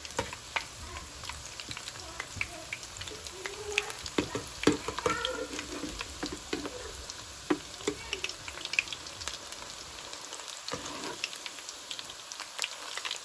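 Onion pakoras sizzling in hot oil in a small cast-iron pan: a steady frying hiss with frequent sharp crackles and clicks as a slotted steel spoon turns them.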